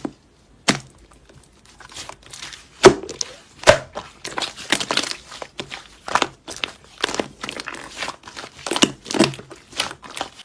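Slime being squeezed and played with by hand, giving irregular crinkling crackles and sharp pops.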